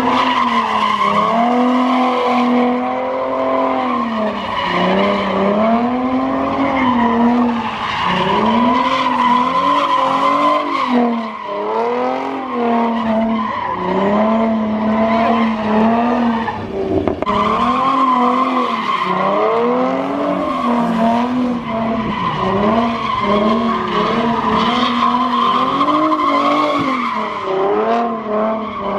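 A car doing a burnout or donuts: tyres squealing steadily while the engine revs rise and fall over and over.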